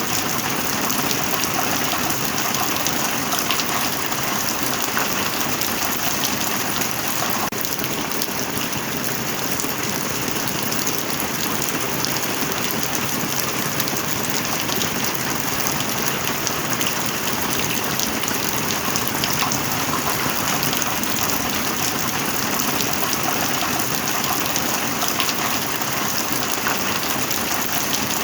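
Heavy rain falling steadily: a dense, even hiss with many individual drops pattering on a surface.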